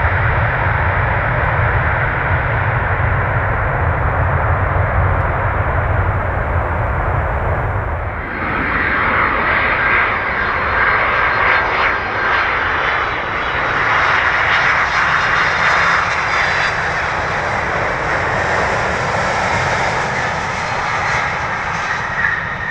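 Jet airliner noise: a Boeing 737-800 on the runway after touchdown with a deep, steady rumble, then an abrupt change about 8 seconds in to a Boeing 767-300ER coming in to land, its engines giving a loud rushing sound with a faint steady whine.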